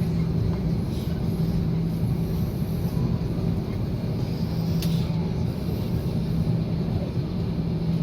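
Steady low droning hum of a vehicle interior, with a short click about five seconds in.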